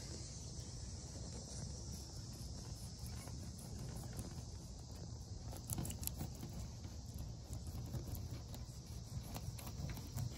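A knife cutting into a small perch on a plastic cutting board: a few faint clicks and scrapes, about six seconds in and again near the end, over a steady low rumble and a steady high hiss.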